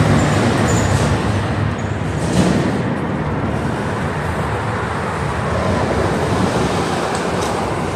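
Road traffic noise: a steady rush of passing vehicles, slightly louder in the first second and easing a little afterwards.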